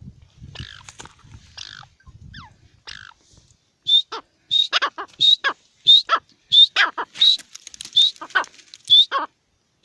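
Partridge (teetar) calling loudly in a fast, even series from about four seconds in, each call a short high rising note followed by lower harsh notes, about three calls every two seconds. Before that there are only faint scratchy sounds.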